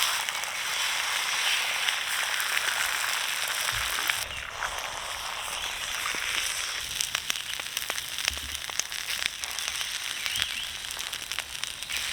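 Breakfast food sizzling in a frying pan: a steady dense hiss with many small crackles, easing a little about four seconds in.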